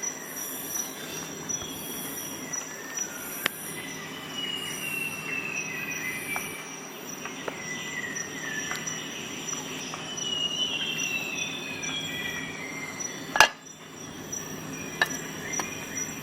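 Metal squeaks sliding down in pitch and light clicks, with one sharp click about thirteen seconds in, as the tools of a Swiss Army knife are worked open and shut. Faint insect-like chirping pulses run in the background.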